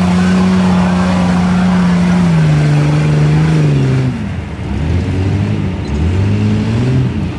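Chevy 4x4 mud truck's engine held at high revs, stepping down in pitch twice and falling off sharply about four seconds in, then revved up and down in short pulls.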